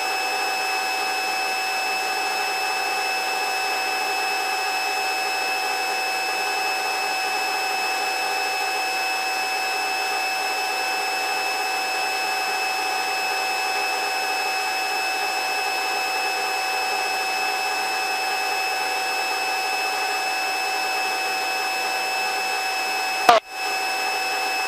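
Helicopter cabin noise in cruise flight, heard through the headset intercom: a steady drone with several steady high-pitched whining tones and no deep bass. Near the end there is a click and a brief cut-out.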